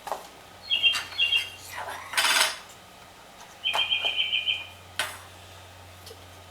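Recorded birdsong played back on a tape recorder: short phrases of quick, high chirps, including a rapid run of about seven notes past the middle. A brief clattering rattle comes about two seconds in, and a few sharp clicks are scattered through.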